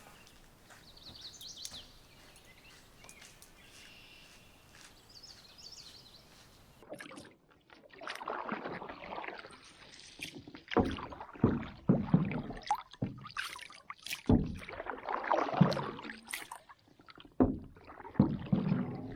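Canoe being paddled: uneven strokes of the paddle swishing and splashing through the water, with a few sharp knocks of the paddle against the hull. These start about a third of the way in, after a stretch of faint, quiet outdoor background.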